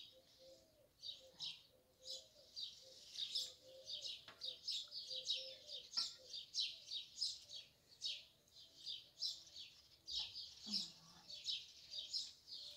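Small birds chirping busily in quick, short, high-pitched notes, several a second, with no pause.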